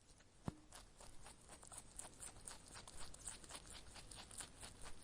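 Faint clicking and rustling: one sharp click about half a second in, then a run of soft, irregular ticks and rustles.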